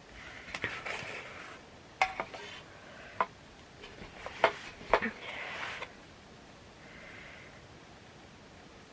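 Takeout food container being handled: rustling and about five sharp clicks and taps of its packaging and utensils.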